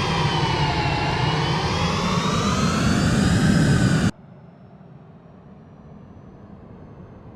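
Jet airliner engines running loud, a roar with a whine of several tones that waver up and down in pitch. The sound swells, then cuts off abruptly about four seconds in, leaving a faint low background hum.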